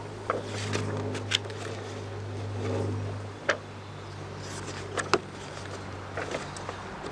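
Plastic model kit parts being handled: light rustling and a scatter of short sharp clicks and taps from the plastic runners and their packaging. A steady low hum runs underneath.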